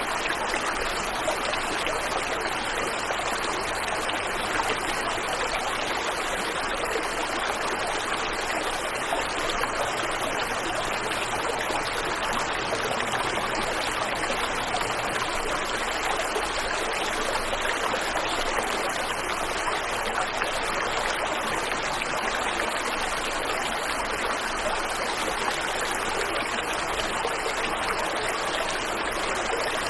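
Waterfall and river water rushing steadily, an even, unbroken splashing hiss.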